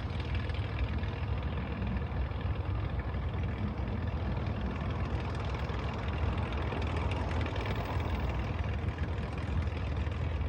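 Steady low drone of a floatplane's engine running, holding an even level.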